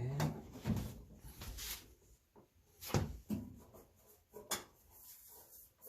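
A string of knocks, clunks and scrapes from handling tools and hardware against a wall, with two louder knocks about three and four and a half seconds in.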